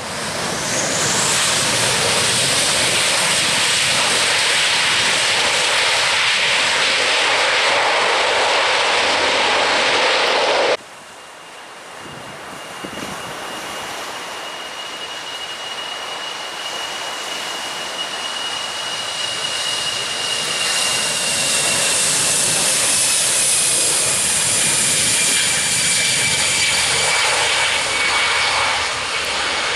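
Jet airliner engines, loud and steady, cut off abruptly about a third of the way through. Another jet's engine noise follows, with a high whine that slowly falls in pitch as it grows louder.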